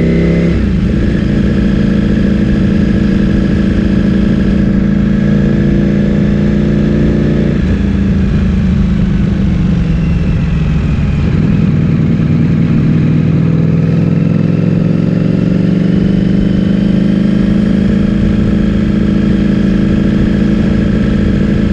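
Ducati Streetfighter V4S's V4 engine through an Akrapovic full-system exhaust, heard from the moving bike. The engine note drops sharply about half a second in and runs steady. It falls away from about eight seconds in as the bike slows, then climbs gradually again over the last several seconds as it accelerates.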